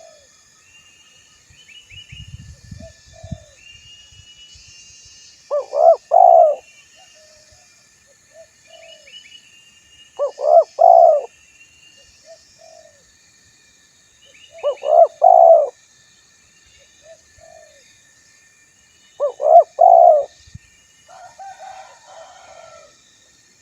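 Spotted dove (tekukur) cooing: four loud coo phrases about every four and a half seconds, each made of a few short quick notes, with softer single coos between them. Small birds chirp faintly in the background.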